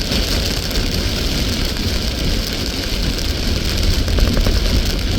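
Car driving through a heavy downpour, heard from inside: steady road and engine rumble with rain hissing on the vehicle.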